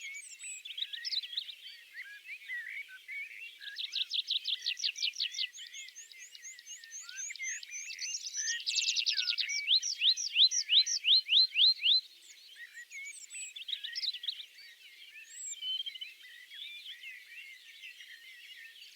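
Songbirds singing together in a forest chorus, with a rapid trill about four seconds in and, loudest, a run of quick rising whistled notes about ten to twelve seconds in.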